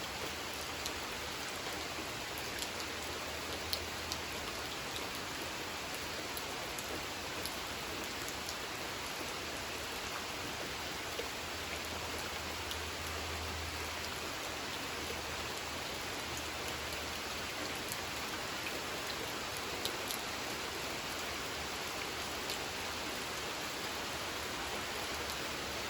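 Steady rain falling on a pond: an even hiss with scattered louder drop ticks.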